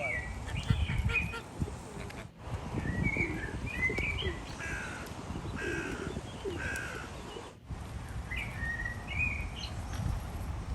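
Birds calling in clusters of short, repeated calls over a low rumble of wind on the microphone, with two abrupt cuts partway through.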